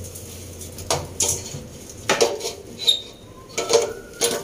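Metal tools and engine parts clinking and knocking against each other, several separate sharp clinks spread over a few seconds. A low steady hum stops about a second and a half in.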